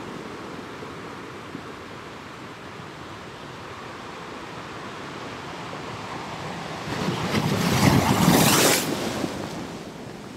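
Ocean surf washing steadily, with one wave surging in louder for about two seconds, a little past two-thirds of the way through.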